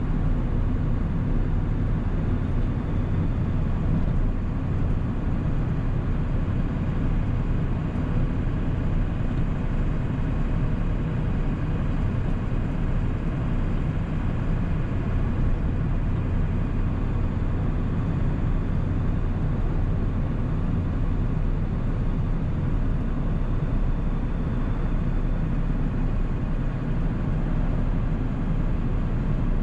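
1997 Ford 7.3-litre Powerstroke turbo-diesel V8 running while the truck cruises at a steady pace, a steady low drone mixed with road noise.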